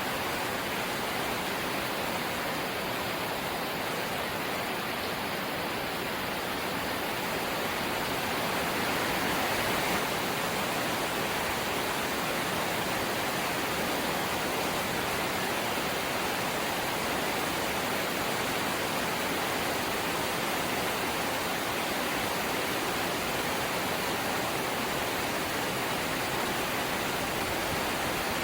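Rain falling on a corrugated zinc roof, a dense steady hiss of drops on sheet metal that grows a little heavier about a third of the way in.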